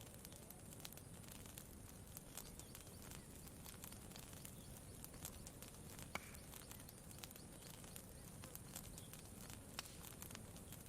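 Faint campfire crackling: scattered sharp pops and ticks over a soft, steady low background, with one louder pop about six seconds in.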